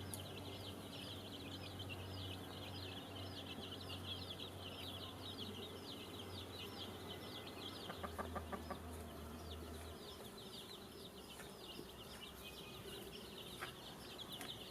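Faint birdsong: birds repeating short high chirps several times a second, with a quick run of low clucking notes about eight seconds in.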